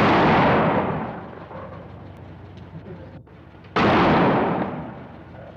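Bomb blasts: two sudden loud bangs, one at the start and one nearly four seconds later, each dying away over a second or so.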